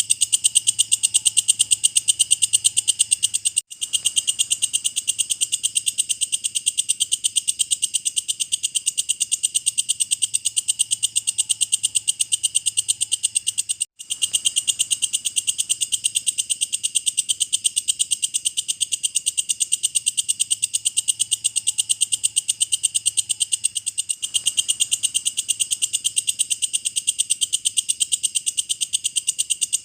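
Walang kecek bush cricket stridulating: a loud, steady, high-pitched chirring made of very rapid pulses, with two momentary breaks.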